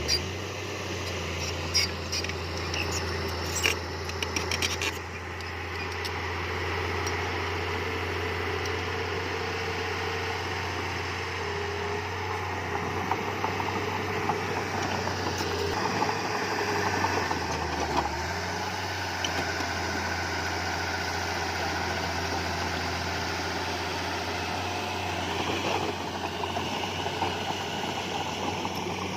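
Heavy diesel engine of earthmoving machinery running steadily with a low drone, with a few sharp clanks and rattles in the first five seconds.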